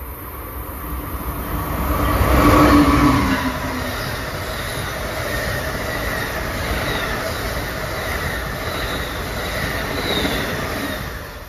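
Amtrak passenger train passing close by at speed. The sound builds to its loudest as the head end goes by, about two to three seconds in, then settles into a steady rumble of passing cars with repeated wheel clicks, and falls away near the end as the train clears.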